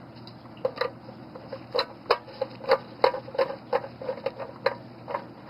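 Ratchet wrench clicking in a quick, uneven series of ticks, about three a second, as the bolts holding the mower's pull-start assembly are driven in.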